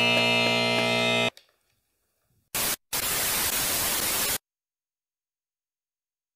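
Edited transition sound effects: a held musical chord that cuts off about a second in, then a short burst and a longer burst of static-like hiss lasting about a second and a half, ending abruptly in dead silence.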